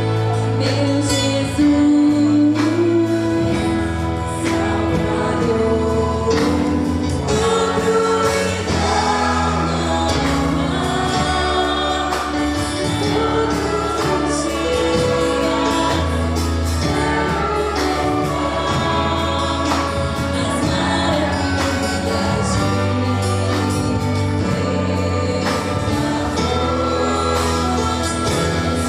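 Christian worship song: a group of voices singing over a band, with a steady bass and drums.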